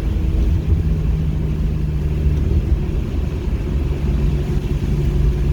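Car engine running at a fairly steady speed on track, with a steady low drone and rumble from the road and tyres.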